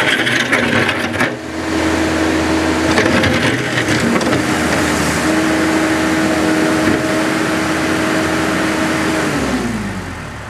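2004 Case 90XT skid steer's four-cylinder turbo diesel running hard at high throttle with a steady whine, with clanks and rattles in the first second or so and again about three seconds in. Near the end the engine pitch falls as it throttles back toward idle.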